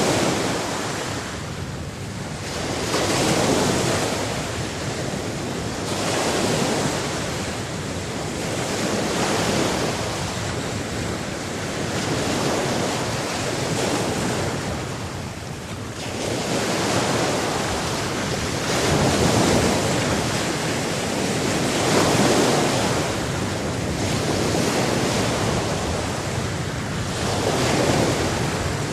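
Sea surf washing in, a continuous rush of water that swells and eases about every three seconds as the waves break.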